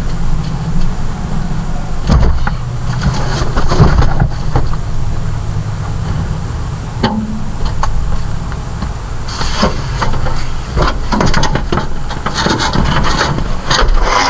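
A car's engine running steadily, with repeated knocks, clunks and rattles as an item is handled around the car, most of them in two busy stretches, one early and one over the second half.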